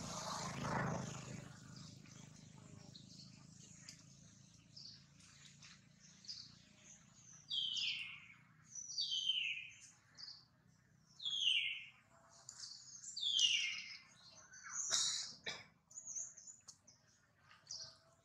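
A bird calling: a run of five loud falling calls about every two seconds in the second half, over faint high chirping. A short burst of noise comes at the very start.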